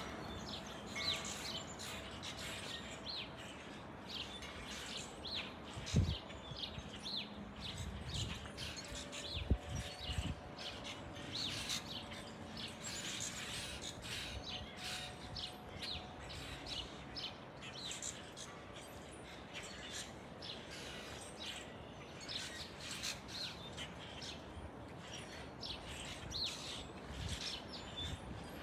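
Small birds chirping and calling, many short calls a second overlapping throughout, with two brief low thumps in the first third.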